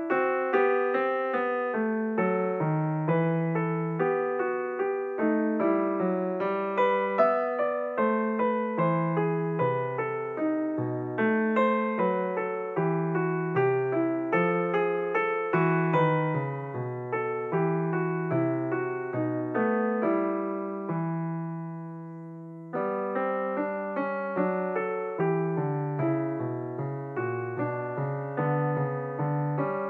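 Background piano music: a steady run of struck notes that dies away on a held chord about twenty seconds in, then starts up again.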